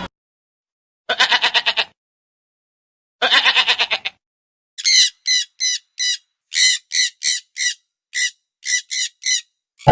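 Goat bleating twice, each bleat a wavering, pulsed call of under a second. These are followed by a run of about a dozen short, high, sharp calls, two or three a second.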